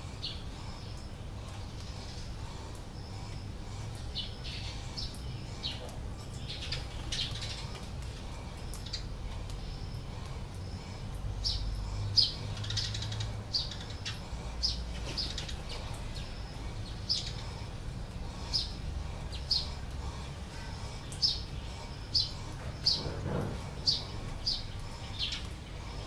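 Small birds chirping, short high calls repeated over and over and coming more often in the second half, over a steady low rumble.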